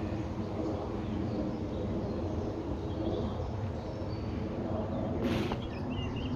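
Outdoor ambience: a steady low rumble with short, high bird chirps scattered through the second half, and a brief burst of noise about five seconds in.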